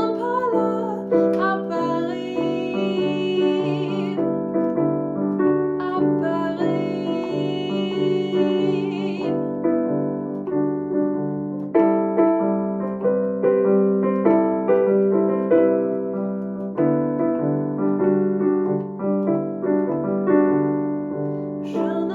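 Piano playing an instrumental break in a slow two-chord song, with steady repeated notes.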